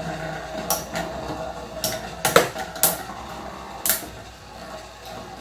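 Two Metal Fight Beyblades, Gravity Destroyer and Meteo L-Drago Rush, spinning in a plastic Tornado stadium. A steady whir is broken by about five sharp metal clacks as the tops hit each other.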